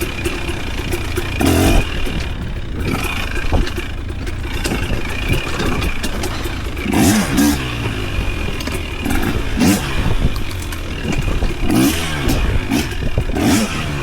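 Off-road vehicle engine revving up and down repeatedly while driving a rough trail, with clattering and scraping from the machine and the terrain.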